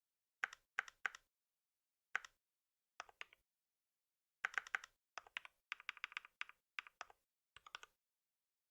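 Computer keyboard being typed on: short runs of key clicks with pauses between, and a quicker stretch of typing in the middle.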